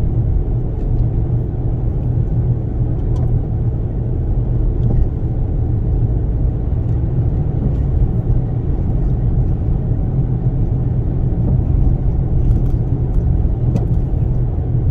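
Toyota Sienna minivan driving slowly at about 50 km/h through a snowstorm, heard from inside the cabin as a steady low road-and-wind rumble, with a few faint ticks.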